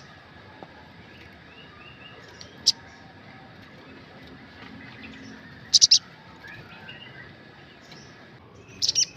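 Sogok ontong (spiderhunter) calls played as a lure recording: short, sharp, high-pitched notes, a single one a little under three seconds in, a quick run of three around six seconds, and another cluster near the end, with faint chirps between.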